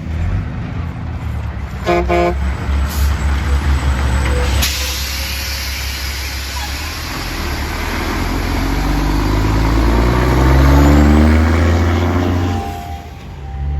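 A truck horn gives a short toot about two seconds in, over heavy truck traffic. Then a truck passes close, and an engine rises in pitch as it accelerates near the end.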